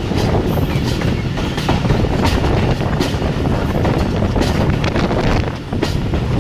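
Jaffar Express passenger train running at speed: a steady heavy rumble, with the wheels clacking over rail joints about every half second to second.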